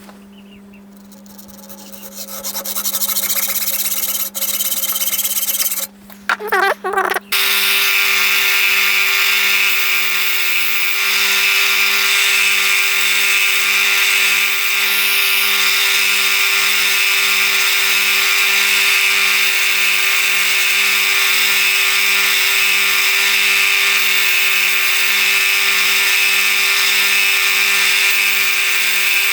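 A grinder cutting and grinding a 3 mm mild steel rod to length, with a stop-start beginning and then a steady run from about seven seconds in.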